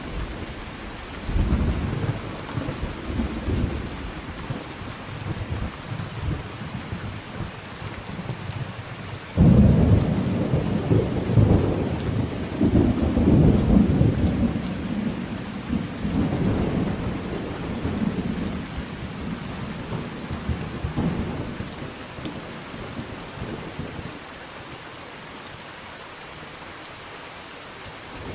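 Thunderstorm: steady rain with rolling thunder. A low rumble early on is followed by a sudden louder thunderclap about nine seconds in that rolls on and slowly fades, leaving mostly rain near the end.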